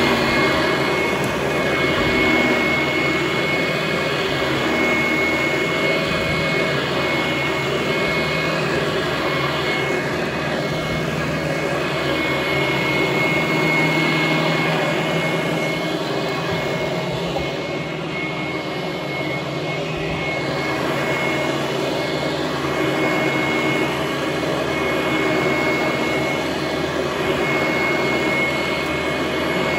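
Vintage Hoover Conquest commercial direct-air upright vacuum cleaner running on carpet: a really noisy, steady motor rush with a constant high whine on top, the level swelling and easing slightly as it works.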